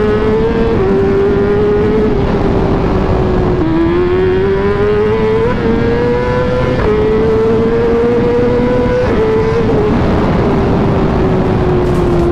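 Superbike engine accelerating hard through the gears: the engine note climbs and drops back at each of several quick upshifts, then falls steadily as the bike slows.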